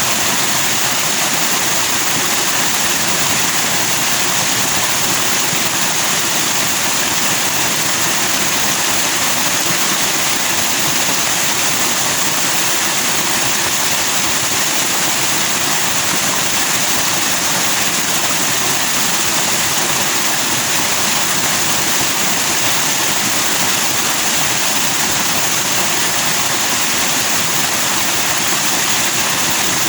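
Forest stream rushing over rocks in white foam, a steady unbroken hiss of flowing water.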